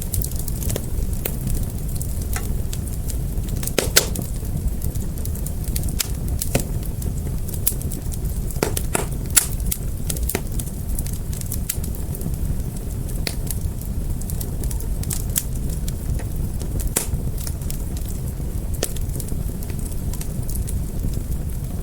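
Fire crackling: a steady low rumble of flames with scattered sharp pops, the loudest about four and nine seconds in.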